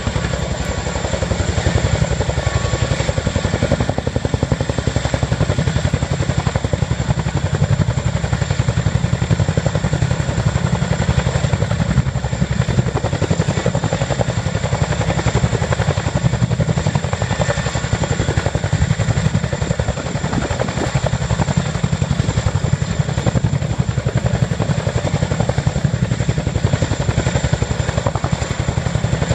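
Boeing CH-47 Chinook (RAF HC Mk6) tandem-rotor helicopter hovering: a steady, heavy, rapid rotor beat over a thin high whine.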